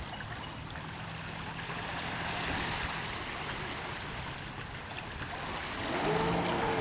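Jet ski engine running over rushing, splashing water. About six seconds in it gets louder and its pitch rises as the engine revs up.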